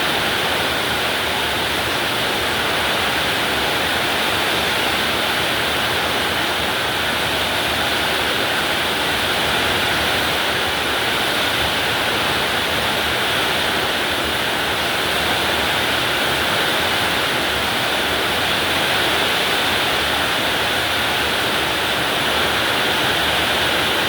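Heavy rain pouring steadily, a dense even hiss with no breaks or gusts.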